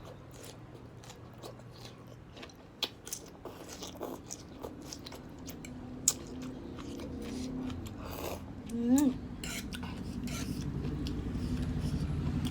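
Close-up eating sounds of jajangmyeon noodles being bitten and chewed, with many sharp wet mouth clicks. A short hummed 'mm' comes about nine seconds in, and a low drone grows louder over the last couple of seconds.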